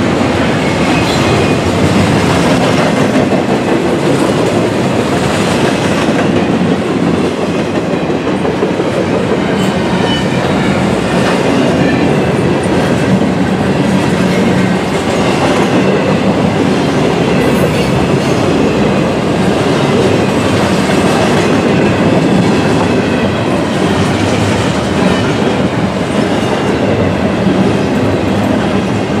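Double-stack intermodal freight cars rolling past close by: a loud, steady rumble of steel wheels clattering on the rails.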